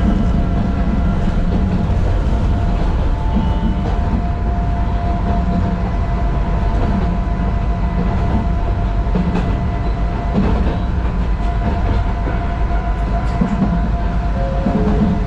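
Narrow-gauge (762 mm) electric train of the Sangi Railway Hokusei Line running, heard inside the car behind the cab: a steady low rumble with a steady whine over it and a few sharp wheel clicks on the rails.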